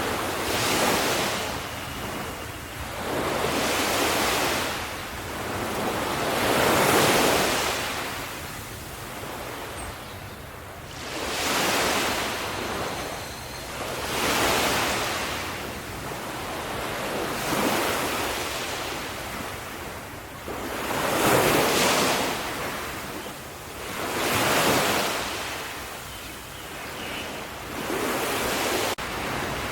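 Sea waves breaking on a shore, each one surging up and washing back in a steady rhythm of about one wave every three seconds.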